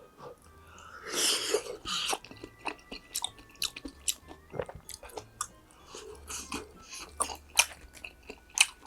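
A person chewing and biting food close to the microphone: a steady run of short wet clicks and crunches, with a louder bite about a second in.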